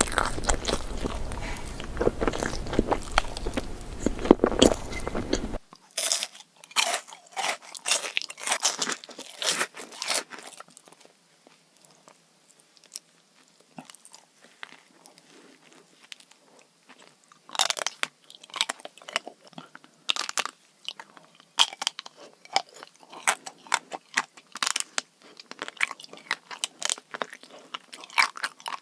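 ASMR eating sounds of someone biting and chewing crunchy sweets up close to the microphone. A dense, loud run of crunching and chewing gives way about five seconds in to sparser, thinner crisp crunches and wet chewing clicks.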